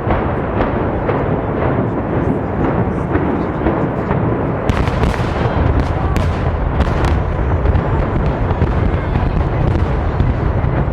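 Building demolition by implosion: a rapid string of explosive charges cracking over a loud, continuous low rumble, with several sharper bangs a little under halfway through. The sound was louder than expected.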